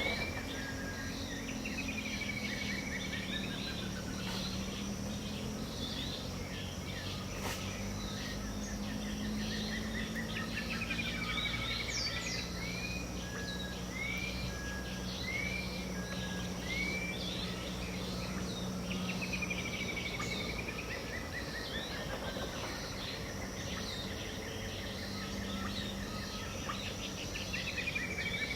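Pantanal dawn chorus: many birds calling over a steady insect chorus, with short arched whistles repeated in series and longer swooping calls, and a faint low steady hum beneath.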